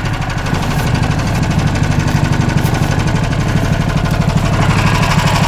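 Motor tow's small engine running steadily with a rapid even firing pulse, growing a little louder near the end. The machine is bogged down, its track without grip, spinning on sand under the snow.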